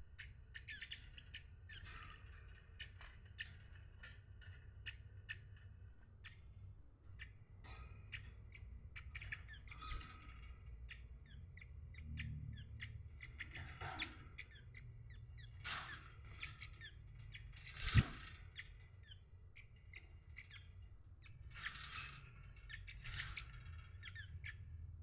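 Many small birds chirping and squawking, short calls overlapping, over a low steady rumble. A single sharp knock about three-quarters of the way through is the loudest sound.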